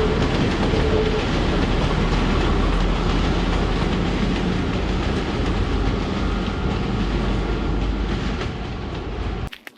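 A train running past on the railway line close by: a loud, steady rumble with rail and wheel noise. It cuts off abruptly near the end.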